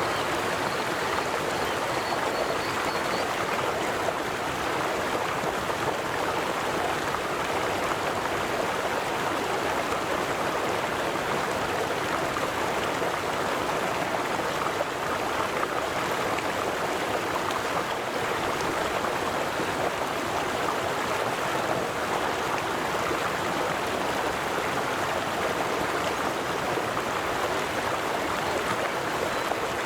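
River water flowing and babbling steadily over stones, a constant rushing with no breaks.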